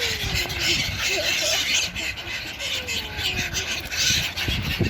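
A flock of gulls calling over one another in a dense, continuous chatter while being hand-fed.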